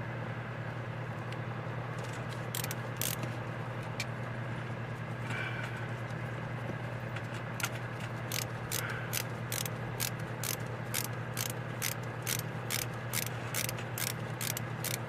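Ratcheting hand tool clicking at a steady pace of about two clicks a second from about halfway in, working screws loose on a carburetor during disassembly, with a few scattered clicks before it and a steady low hum underneath.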